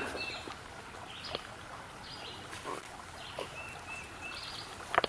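A bird calling in short, high whistled notes: a pair at the start and three quick ones past the middle. A few sharp clicks come near the end.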